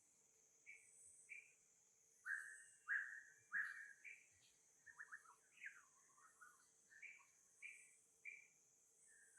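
Faint series of short, high chirping calls, some sweeping downward, about a dozen in all, the loudest three coming two to four seconds in, over a steady high hiss.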